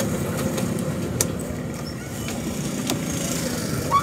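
Small motorcycle engine idling steadily in neutral, with a couple of faint clicks.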